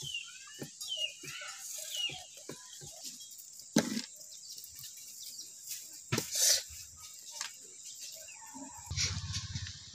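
Birds chirping in short, quick calls, with a few sharp knocks, the loudest about four seconds in and again around six seconds, and a low rumble near the end.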